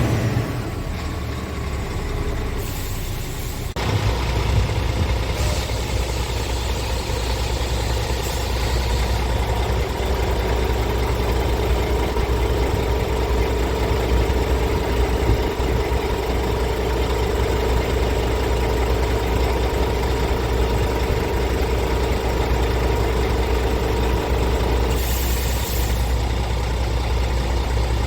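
Scania R tractor unit's diesel engine idling steadily. About four seconds in it becomes louder and deeper, then holds an even idle.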